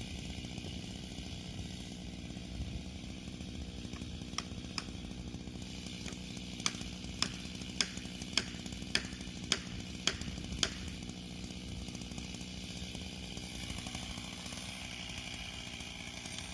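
Chainsaw engine idling steadily. In the middle comes a run of about ten sharp clicking knocks, roughly two a second.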